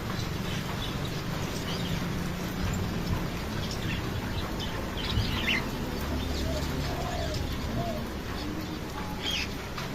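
Mixed birds calling: scattered short, high chirps, clearest about five seconds in and again near the end, with a few short, low calls in between, over a steady background hiss.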